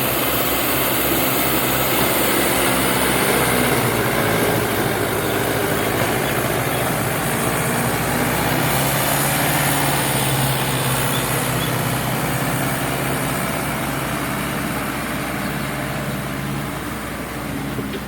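Diesel engine of a heavy farm or earthmoving machine running steadily.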